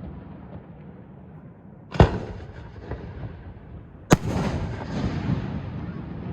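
Fireworks: two booming aerial shell bursts about two seconds apart, the second sharper, each trailing off in a rolling echo and faint crackle.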